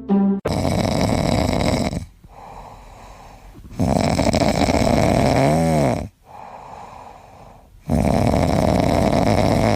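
Loud, rasping snoring in three long snores of about two seconds each, with quieter breaths between them and a brief whistling tone during the middle snore.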